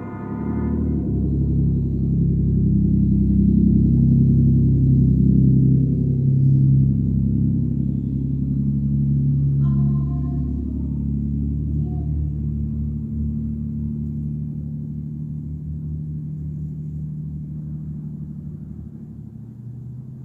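Loud, deep exhaust drone of a very loud truck. It swells over the first two seconds, holds, then fades slowly over the second half. A brief higher tone sounds about halfway through.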